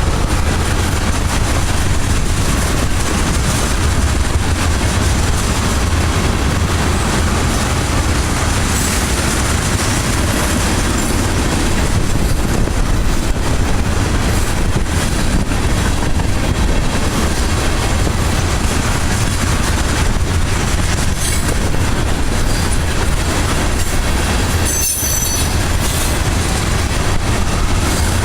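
A train's cars rolling past with steady rumbling wheel and rail noise. There is a brief high wheel squeal near the end.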